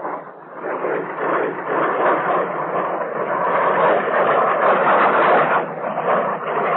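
Jet aircraft engine noise, a loud, steady rushing sound on an old, narrow-band film soundtrack, during in-flight refueling of an A-4D Skyhawk from a buddy tanker. It dips briefly about half a second in, then holds.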